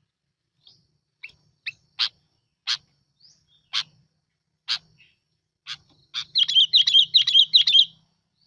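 Sooty-headed bulbul (bông lau) calling: a run of short, sharp notes spaced under a second apart, then about six seconds in a fast, loud, bubbling warbled phrase lasting about two seconds.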